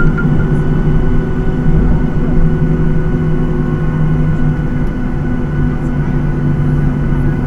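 Cabin noise inside a Boeing 737-800: its CFM56-7B jet engines and the airflow give a steady, loud low rumble with a few steady hum tones running through it.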